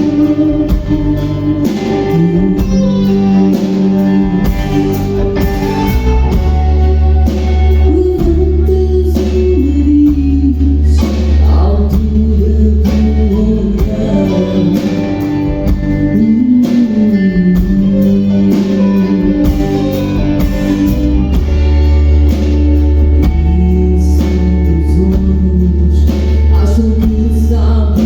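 A rock band playing live: drums, bass and guitar, with a voice singing over them.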